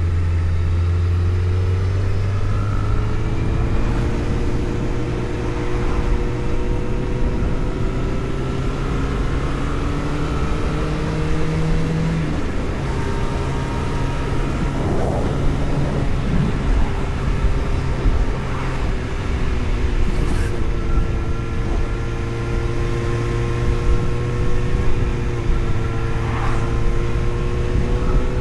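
A vehicle's engine running steadily while driving, over a constant rush of road and wind noise. The engine note holds with slow small rises and falls and steps down about twelve seconds in.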